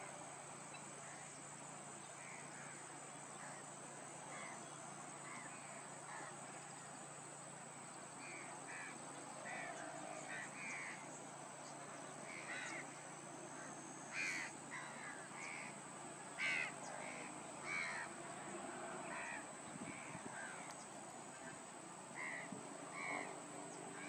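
Birds calling in a wetland: a string of short, harsh calls coming in irregular runs, with a few louder calls in the middle.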